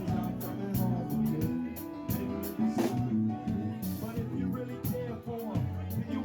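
Live band playing with electric guitar, bass and drum kit, the drums keeping a steady beat.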